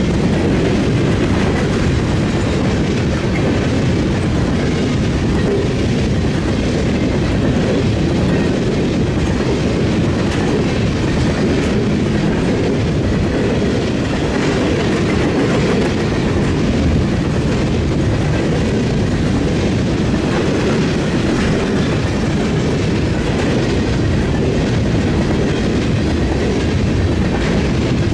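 Train cars rolling past at steady speed. A continuous heavy rumble with the repeated clickety-clack of wheels over the rail joints and the diamond crossing.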